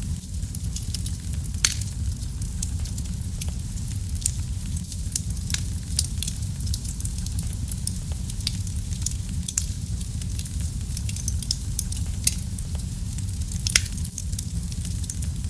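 Wood fire burning in a fireplace: a steady low rumble of the flames with frequent irregular crackles and pops, a few louder pops scattered through.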